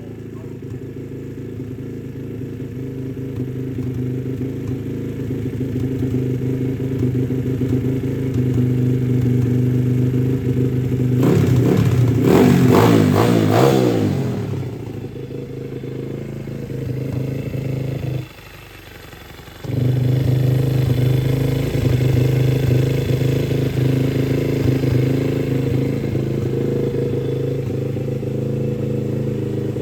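Chinese pit bike's single-cylinder four-stroke engine running steadily on a freshly installed aftermarket cam. It gets louder and is revved up partway through, and the sound drops away briefly about two-thirds of the way in before carrying on.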